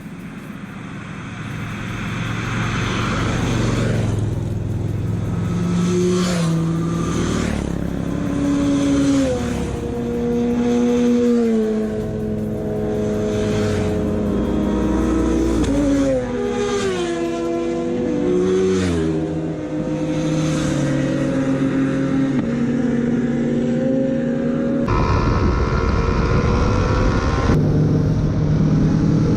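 Motorcycle engine under way, its pitch rising and stepping through gear changes several times as the bike accelerates, with wind and road noise. The sound changes abruptly near the end.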